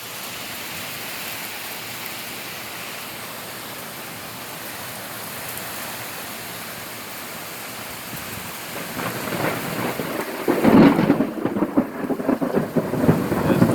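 Steady rain hissing, then thunder rolling in about two-thirds of the way through, a loud crackling rumble that swells and keeps rumbling.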